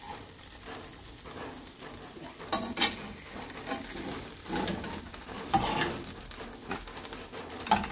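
Masala-coated shrimp sizzling in oil in a kadai, frying crisp, while a steel spatula scrapes the pan and turns them several times.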